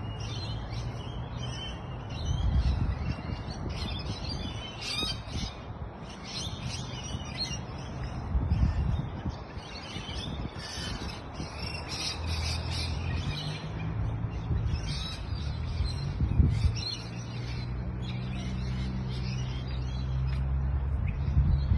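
Many small birds chirping and twittering over one another without a break. Underneath sits a low rumble with a few dull thumps, and from about halfway a steady low hum.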